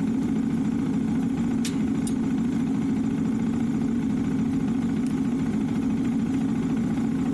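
Motorcycle engine running steadily with an even hum, with a couple of faint clicks about two seconds in.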